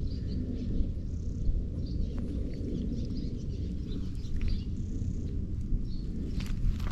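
Steady low outdoor rumble with faint bird chirps and small ticks scattered through it.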